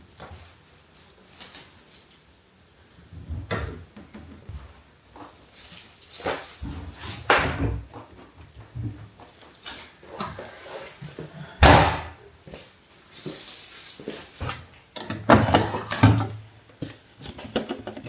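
Household clatter: a series of irregular knocks and bangs from things being handled, such as doors, drawers or cupboards being opened and shut. The loudest is a single sharp bang about two-thirds of the way in, followed a few seconds later by a quick run of knocks.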